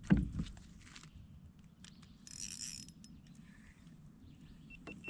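Handling noises in a fishing kayak with a just-landed fish: a knock right at the start, then a short scratchy rattle about two and a half seconds in and a few faint clicks.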